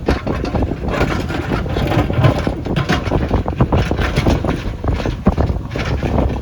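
JCB backhoe loader's diesel engine running while the machine works, a loud continuous rumble with irregular clatter.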